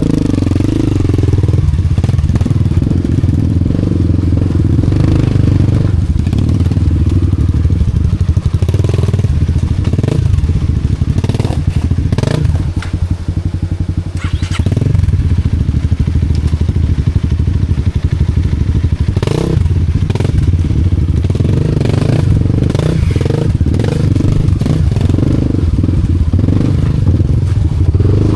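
Single-cylinder four-stroke engine of a trail-modified Honda Wave 125 motorcycle running at low revs, with scattered knocks and clatter, as when the bike crawls over rocks.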